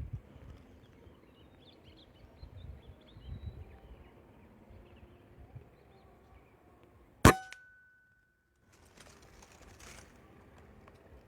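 A single sharp gunshot about seven seconds in, followed by a brief high ringing tone, over faint outdoor background noise.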